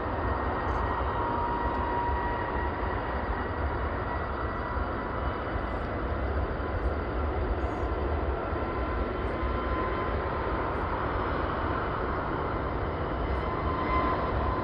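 Steady aircraft engine noise: a continuous deep rumble with a faint steady whine over it.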